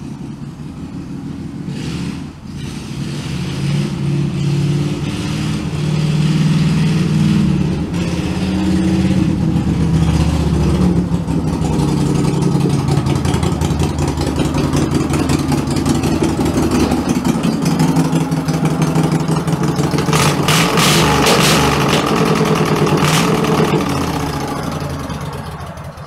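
The redneck tractor's engine running and revving under load, growing louder over the first few seconds, its pitch rising and falling. A spell of sharp crackle or clatter comes about three-quarters of the way through.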